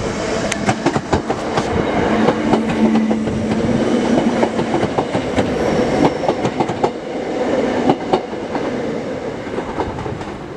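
Class 319 electric multiple unit passing close along the platform: wheels clacking over the rail joints, with a steady hum for a couple of seconds in the middle, growing fainter over the last few seconds as the train draws away.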